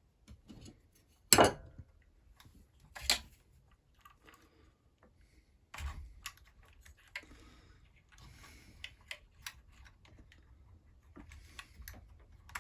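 Clicks and light knocks of small plastic and metal chainsaw parts and tools being handled during a Husqvarna 346XP strip-down. Sharper knocks come about a second and a half, three seconds and six seconds in, with softer clicking and rustling between.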